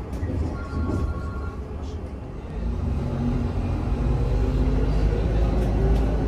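VMZ Avangard trolleybus on the move, with the low rumble of its running gear and road. The rumble grows louder about two and a half seconds in, when a steady hum joins it.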